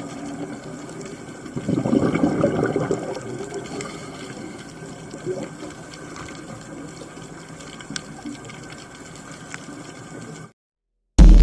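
Muffled underwater water noise picked up by a diver's camera, with a louder gurgling rush about two seconds in and scattered faint clicks. It cuts off suddenly near the end.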